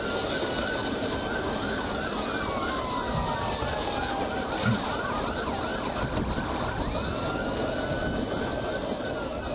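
Police car siren sounding during a pursuit, switching between a fast repeating yelp and slower falling wails, over the steady road and engine noise of the moving cruiser.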